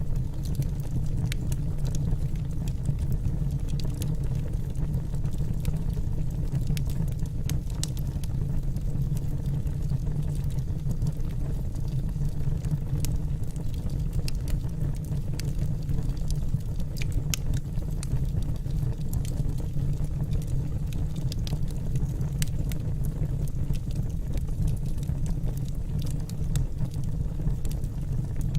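Wood logs burning in a fireplace: a steady low sound of the flames with scattered sharp crackles and pops from the burning firewood.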